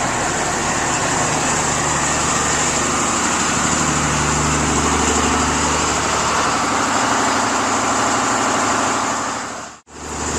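Motor vehicle engine idling steadily under a steady wash of outdoor noise; the sound cuts out briefly near the end.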